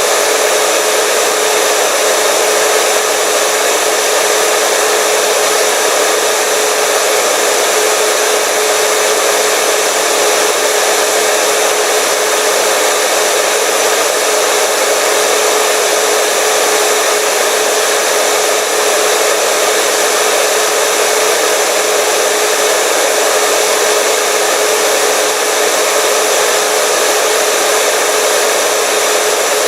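Hair dryer running steadily: an even blowing hiss with a constant motor hum, no change in speed.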